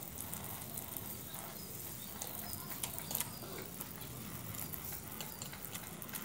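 Light, irregular patter of water drops from a misting spray bath falling on and around a pet bird, with many scattered small ticks over a faint steady hiss.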